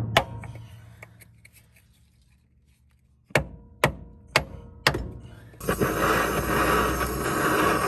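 Hammer blows on metal, about two a second: four ringing strikes after a quiet pause, struck to break a seized engine loose. A loud, steady rushing noise starts a little over halfway through.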